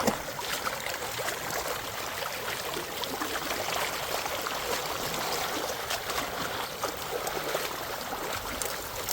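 Creek water flowing steadily over its bed, an even rushing hiss with a few faint clicks on top.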